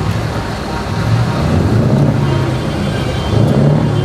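Diesel engines of heavy trucks running as they drive past, a steady low rumble that rises and falls a little.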